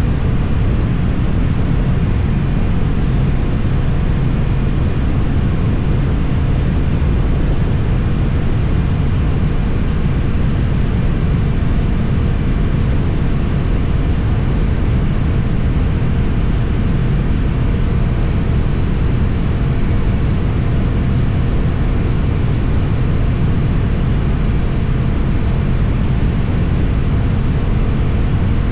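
Suzuki GSX-8TT motorcycle engine running through an Akrapovic exhaust, holding a steady, low note with no big changes in revs, as when cruising.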